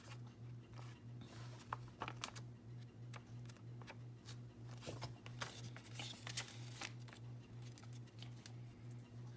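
A sheet of paper folded into a paper airplane being handled and creased by hand: scattered soft rustles and clicks, over a faint low hum that pulses about three to four times a second.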